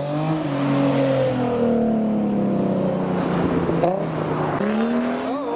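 A car engine driving by: its pitch falls steadily over the first two or three seconds, then rises again near the end as an engine accelerates, with a short click a little before the rise.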